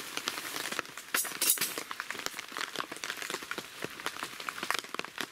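Steady rain pattering and dripping with many small irregular ticks of drops, and a couple of louder sharp rustles about a second and a half in.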